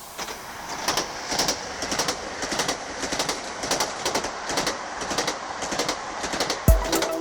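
Train passing along the track, a steady rumble with many irregular clicks and clatters from the wheels. Music with a heavy beat comes in near the end.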